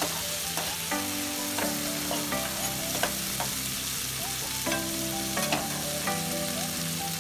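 Onions, tomatoes and paneer cubes sizzling in oil in a nonstick kadhai as a slotted spatula stirs them, with a few sharp clicks of the spatula against the pan.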